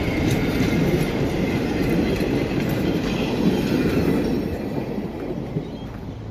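Railway carriage wheels rolling over the rails at close range as the last carriage of a train passes, with a few sharp clicks. The sound fades about four and a half seconds in as the train draws away.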